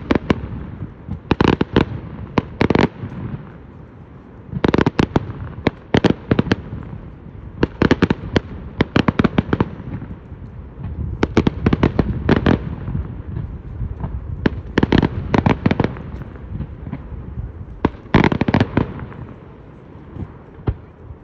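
Fireworks display: volleys of sharp bangs and crackles come in groups every few seconds, with low booms rumbling between them.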